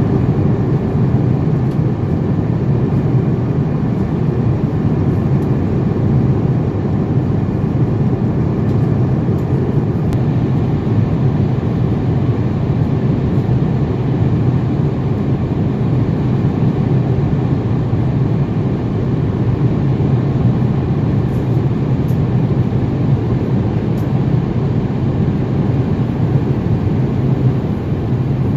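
Qatar Airways Airbus A350-900 jet noise, a constant low rumble with no rise or fall in level.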